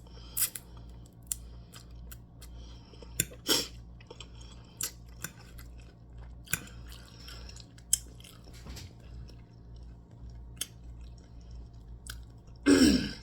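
A person chewing food close to the microphone, with scattered short wet clicks and lip smacks. A louder throaty burst comes near the end.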